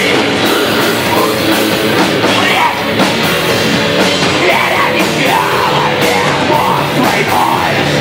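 Heavy rock music at full band volume: distorted electric guitars, bass and drum kit playing an instrumental passage without vocals.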